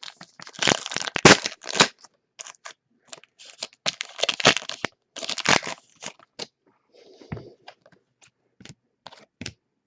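Football trading cards being handled and sorted close to the microphone: a quick series of short scraping, crinkling noises, busiest in the first six seconds, then a few light ticks.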